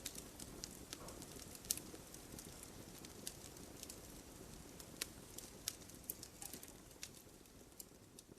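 Campfire of burning logs crackling, with irregular sharp pops over a low, steady rush of flame. The loudest pops come about two seconds in and again near five seconds, and the fire grows quieter near the end.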